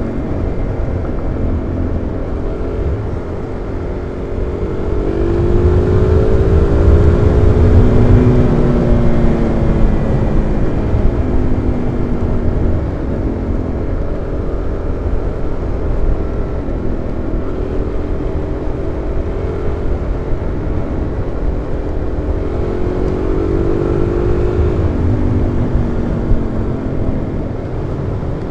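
Single-cylinder supermoto motorcycle engine running under way, its pitch rising and falling as the rider accelerates and eases off several times, loudest a few seconds in. Wind rush on the helmet microphone runs underneath.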